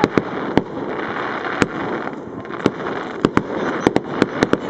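Fireworks display: a run of sharp, irregular bangs from bursting shells, coming thicker in the last second and a half, over a steady noisy rush.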